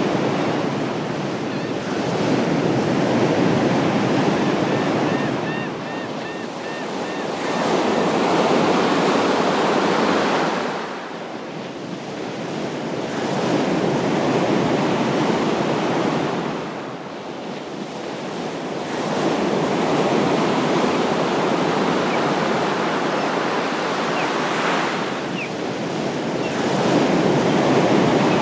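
Ocean waves breaking and washing up a shore, the surf swelling and falling back in slow surges every six to eight seconds.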